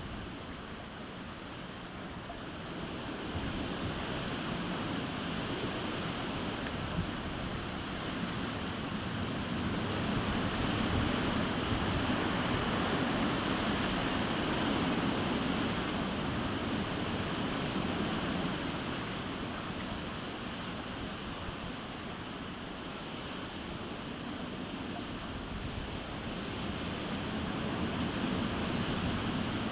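Typhoon wind blowing steadily in long gusts, a continuous rushing noise that swells about ten seconds in, eases off past the middle and picks up again near the end.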